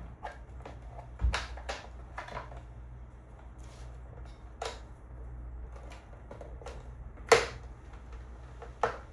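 Scattered clicks and knocks from hand work with small parts and tools, the loudest about seven seconds in, over a low steady hum.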